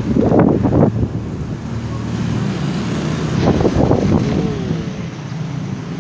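Strong gusty wind buffeting the microphone, with two heavier gusts, one about half a second in and one around three and a half seconds in.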